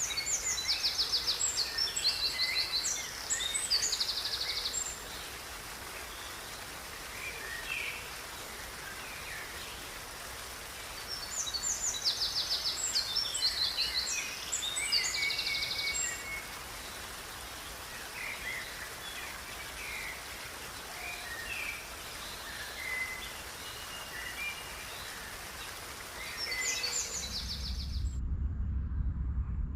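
Songbirds singing over a steady hiss of outdoor background noise, with three bouts of quick high trills and song phrases. Near the end the hiss cuts off suddenly and a low rumble begins.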